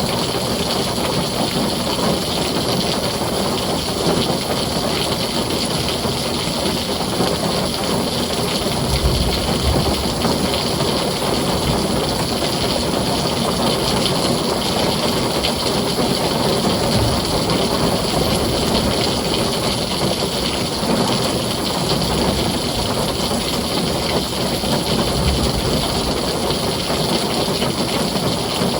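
Heavy rain falling steadily, a dense even hiss, with a few brief low rumbles of distant thunder.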